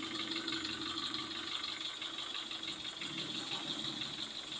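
Toyota Kijang Super engine idling with a fast, even metallic ticking (gemeletek) and a rough note. The mechanic traces the ticking to the valve train, whose clearances and tappets he sets out to adjust.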